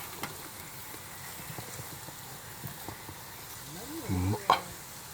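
Low camp background with scattered small clicks; about four seconds in, a brief wordless voice sound from a person, followed at once by one sharp knock.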